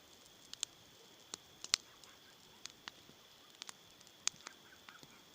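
Campfire crackling: about a dozen irregular, sharp pops and snaps from the burning wood.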